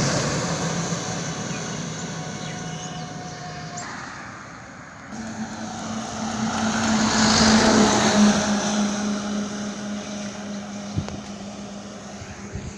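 Trucks on a road passing by. One fades away over the first few seconds; after a break about four to five seconds in, another approaches, is loudest around seven to eight seconds in, and recedes with a steady low engine hum.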